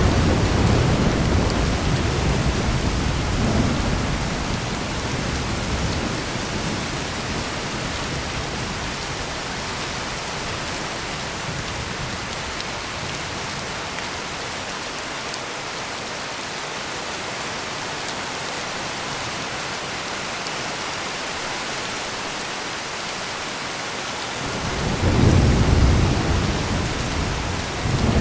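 Heavy rain pouring steadily in a thunderstorm. Rolling thunder rumbles at the start and fades over the first few seconds, and a second rumble swells up near the end.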